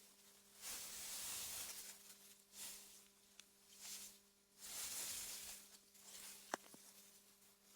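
Soft wind gusting through meadow grass, swelling and fading every second or two over a faint steady hum, with a single sharp click about six and a half seconds in.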